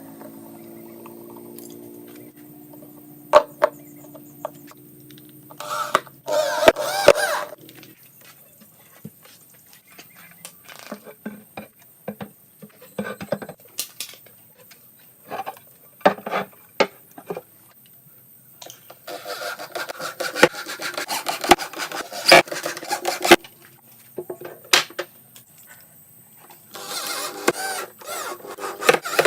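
Workshop handling sounds: scattered sharp knocks and clicks with stretches of rubbing and scraping, as from tools and parts being worked by hand. A steady low hum runs under the first few seconds and stops about six seconds in.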